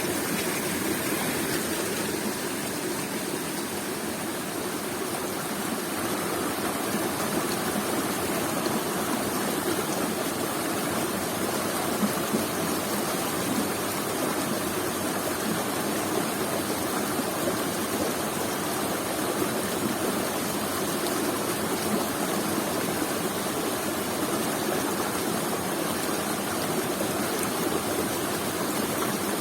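Waterfall and the river below it: a steady, even rush of falling and flowing water.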